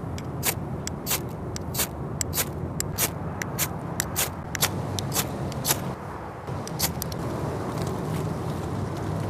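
Dry firewood and twigs snapping and crackling: sharp, irregular cracks, a few each second, over a steady low rumble.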